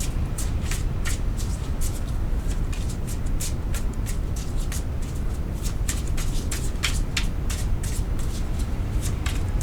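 Tarot cards being shuffled and dealt out by hand: a quick run of papery flicks and snaps, several a second, over a steady low rumble.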